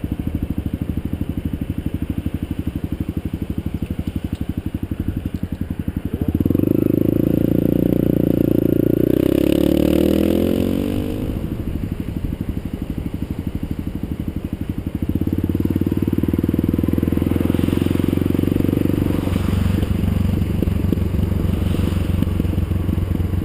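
Vehicle engine running under way: it picks up and gets louder about six seconds in, eases off with a falling pitch around ten seconds, and pulls again from about fifteen seconds in.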